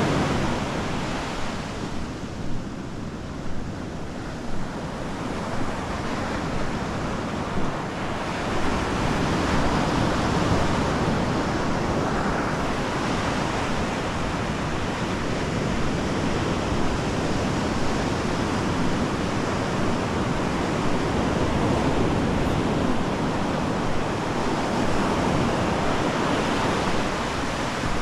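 Ocean surf breaking and washing up the beach, a steady rush that eases a couple of seconds in and then builds again.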